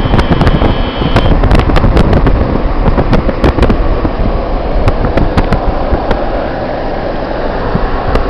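Car driving along a highway, with steady road and engine noise and wind buffeting and crackling on the microphone. The noise eases a little about six seconds in.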